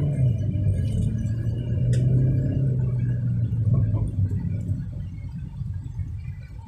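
Volkswagen Santana GTS engine and road noise heard inside the cabin while driving: a steady low drone that eases off after about four seconds.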